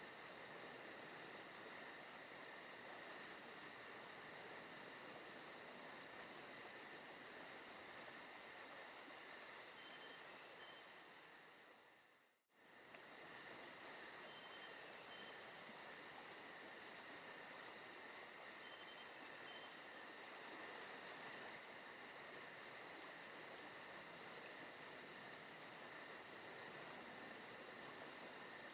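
Forest ambience of crickets and insects chirping steadily, a continuous high trill. About twelve seconds in it fades out briefly to near silence and comes straight back.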